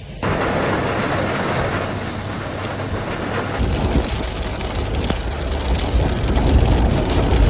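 Heavy rain pouring down, a dense steady hiss that starts abruptly. About halfway through a deep low rumble joins it and grows a little louder toward the end.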